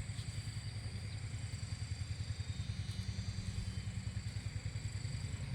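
Small engine running steadily with a rapid low throb.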